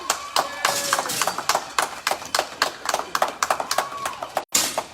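Small audience clapping unevenly, with a couple of voices calling out over it.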